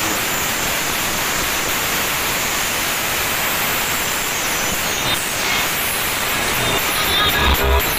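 A loud, steady rushing noise with no clear tone. Thumping bass beats of music come back about seven seconds in.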